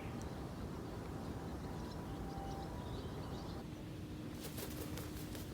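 Steady low outdoor background rumble with faint thin tones through it and a few light clicks near the end.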